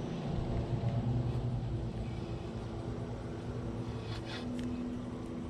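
A distant engine running steadily, a low hum with a few steady tones, and some faint ticking about four seconds in.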